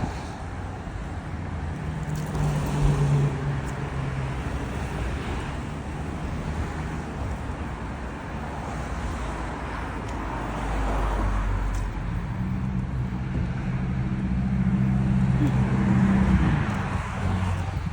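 Road traffic noise, with a vehicle's engine hum coming through twice: briefly a couple of seconds in, then for several seconds from about twelve seconds in.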